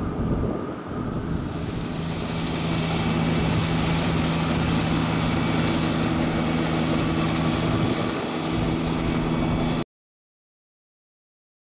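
Small engine of a radio-controlled model airplane running at a steady speed, with wind buffeting the microphone. The sound cuts off abruptly about ten seconds in.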